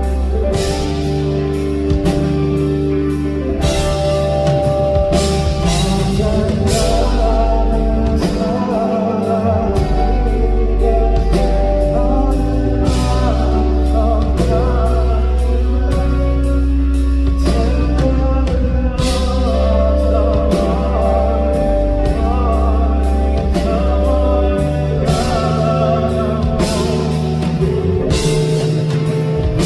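Live band music: a rock-style song with a steady drum-kit beat, held bass and pitched instruments, and a voice singing over it.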